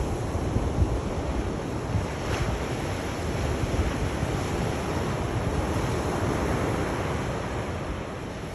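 Sea waves washing in continuously, a steady rush of surf that swells a little past the middle and eases near the end, with low wind rumble on the microphone.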